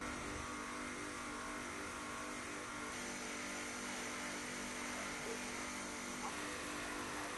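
Kärcher car-wash cleaning machine running steadily: a motor hum of several steady tones under a strong, even hiss, starting abruptly.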